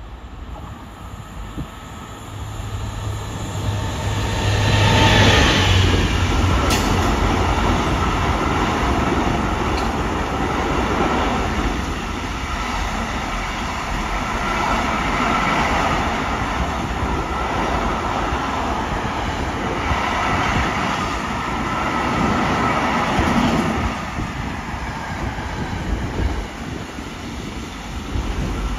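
A BB 75000-class diesel-electric locomotive hauling a container freight train approaches and passes, its engine hum growing to its loudest about five seconds in. Then a long line of container wagons rolls past, the wheels clattering on the rails in repeated swells.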